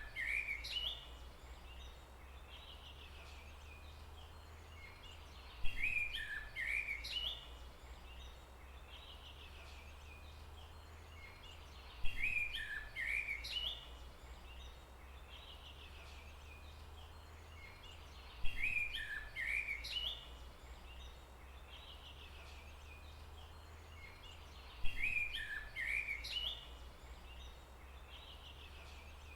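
A songbird singing the same short phrase of quick chirping notes, each phrase about two seconds long, repeated at even intervals about every six seconds, over a steady low rumble.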